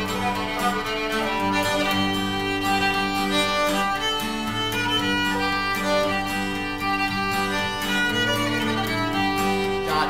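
Instrumental break in a gospel song: a fiddle plays the melody over a steady rhythm of strummed guitar.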